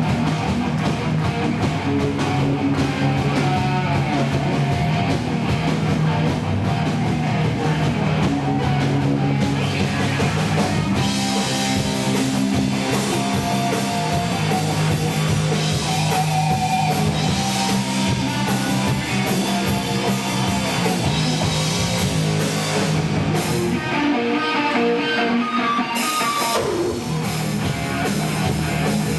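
Live rock band playing an instrumental passage with distorted electric guitar and drum kit, recorded loud and rough from the audience. About 24 seconds in the bass and drums drop out for a couple of seconds, then the full band comes back in.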